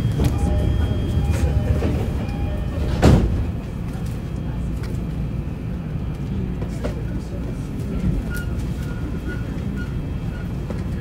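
Shonan-Shinjuku Line electric train running: a steady low rumble with scattered clicks and a loud short thump about three seconds in.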